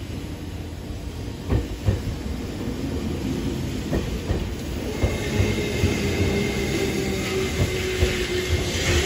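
JR East E491 series East-i-E electric track inspection train pulling slowly into the station: a low rumble, with wheels knocking over rail joints. A steady whine comes in about halfway and grows louder as the cars pass close by.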